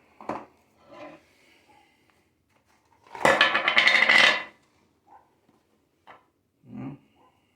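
Hard parts being handled, with scattered light clicks and knocks. About three seconds in there is a rattling clatter lasting a little over a second.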